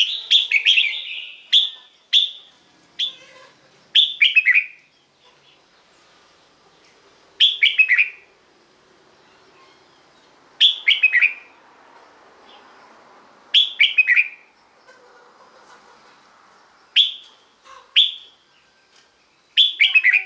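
Red-whiskered bulbul singing short, bright phrases of a few quick falling notes, repeated about every three seconds with pauses between.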